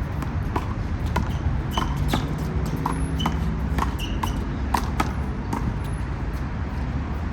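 Rubber handball in a one-wall rally: sharp smacks of the ball being hit by hand, hitting the wall and bouncing on the court, about two a second and irregular, over a steady low rumble.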